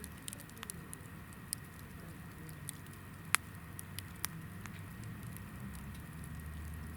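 Hinoki (Japanese cypress) firewood burning in a campfire, crackling with scattered sharp pops over a low steady flame rustle; one pop a little before the middle is much louder than the rest.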